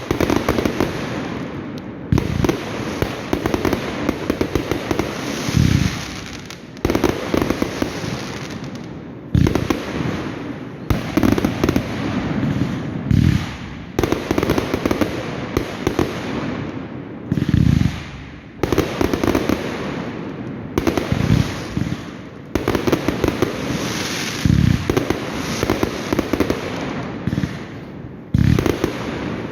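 Fireworks going off without a break: a fast run of bangs and crackling bursts, with a fresh loud bang every second or two.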